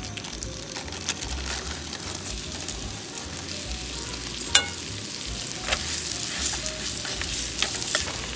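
Flour-dusted chicken cubes sizzling in foaming butter in a frying pan, with steady crackling pops and one louder sharp click about halfway through.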